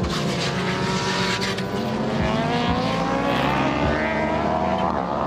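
Several racing motorcycle engines running at high revs, their pitch climbing as they accelerate.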